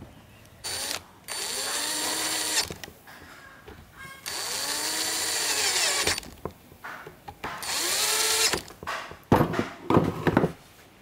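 A power tool with a small motor run in four short bursts of one to two seconds, its pitch rising and falling within each burst, followed by a few sharp knocks near the end.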